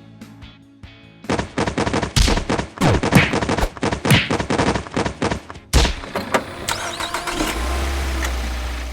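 Rapid-fire cartoon gunfire sound effect, a machine-gun-like rattle lasting about four seconds, ending in one loud bang, over background music.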